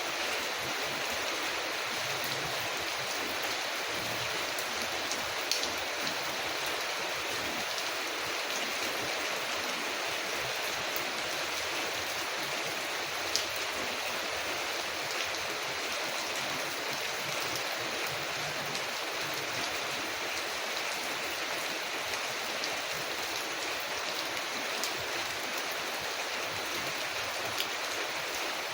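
Steady rain falling on a window, an even hiss with a few sharp clicks scattered through it.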